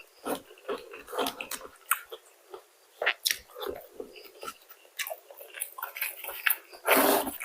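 A person biting and chewing crispy fried chicken and fries: irregular crunching and smacking, with a louder burst near the end.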